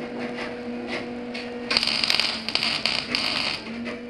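MIG welding arc crackling and sizzling for about two seconds, starting a little under halfway in, with a brief break in the middle. A few short crackles come before it, over a steady low hum.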